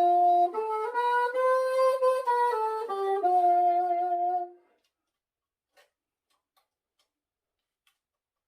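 Saxophone played through a bell-type silencer (practice mute), a phrase of held notes that ends a little past halfway, followed by a few faint clicks.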